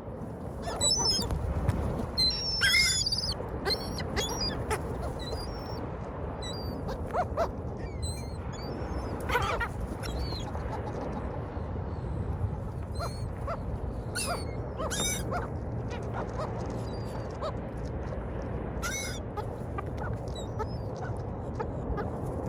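Seagulls calling, many short squawks coming one after another, over a steady low rush of background noise.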